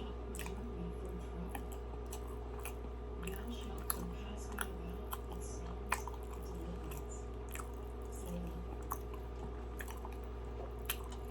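A person chewing Krispy Kreme doughnuts up close, with wet mouth clicks and lip smacks scattered through, over a steady low hum.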